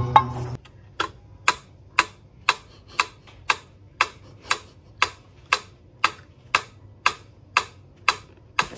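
Even, sharp ticking, about two ticks a second, starting just after a short bit of music cuts off.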